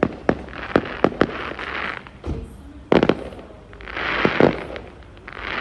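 Fireworks going off: scattered sharp bangs and pops, with several close together about three seconds in, amid spells of hissing crackle.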